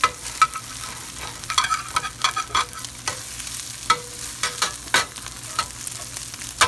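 Scrambled eggs and bell peppers frying in hot oil in a pan: a steady sizzle with frequent, irregular sharp crackles and pops.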